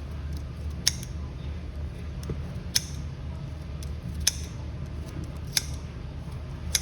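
Five sharp clicks, roughly one every second and a half, over a steady low hum.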